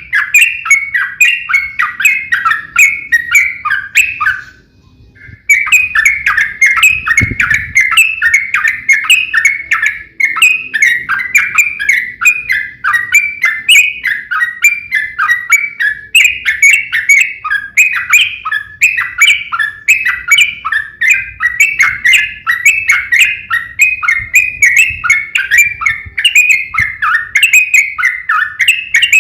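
Yellow-vented bulbuls (trucukan) singing in a long, rapid, unbroken run of bubbling chirps, the aggressive 'fighting' song that is used to provoke other trucukan to answer. The song breaks off briefly about five seconds in, then resumes.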